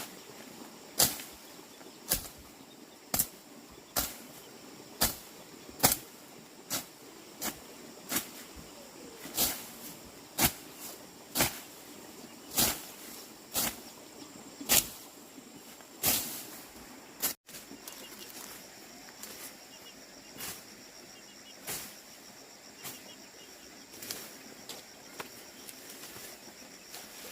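Repeated sharp knocks or snaps, about one a second, some much louder than others. After a sudden cut, fainter knocks continue over a steady high-pitched hum.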